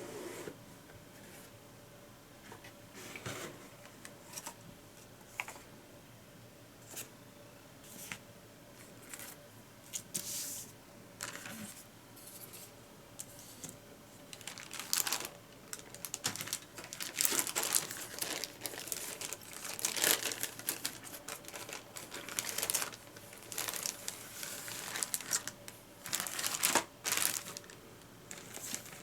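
Crinkling plastic packaging and small clicks from handling plastic model parts, in scattered short bursts that become much busier about halfway through.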